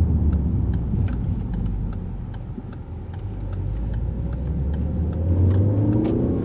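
Ford Focus ST's turbocharged 2.0-litre four-cylinder engine and road rumble heard from inside the cabin, easing off around two to three seconds in, then pulling hard again with the engine pitch rising near the end as the car accelerates.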